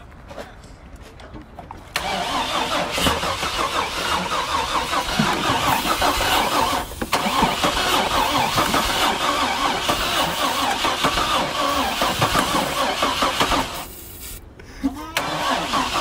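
Chevy S10 truck engine being started and run hard. It kicks in about two seconds in, breaks off briefly around seven seconds, stops near fourteen seconds and comes back a second later.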